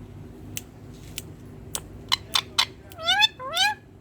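Indian ringneck parakeet calling: a run of short, sharp chirps, then two longer calls near the end that rise in pitch.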